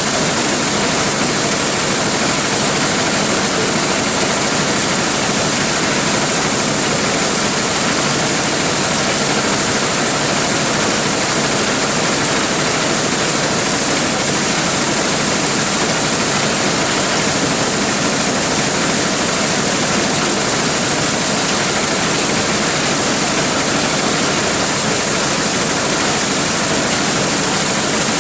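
Large corn sheller running steadily while threshing corn: a loud, even rush of machinery and grain with a bright hiss on top, unchanging throughout.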